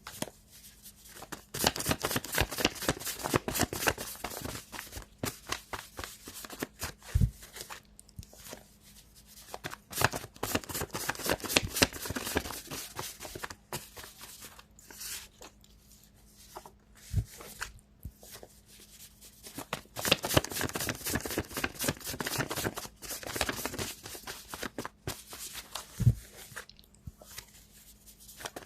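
A deck of tarot cards being shuffled by hand: long runs of rapid papery flicking broken by short pauses, with a soft thump three times as the deck is knocked or set down.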